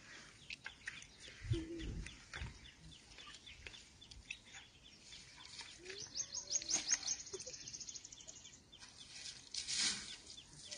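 Faint outdoor ambience with bird calls: scattered high chirps, and a fast, even ticking trill starting about six seconds in and lasting a little over two seconds. A short rush of noise comes near the end.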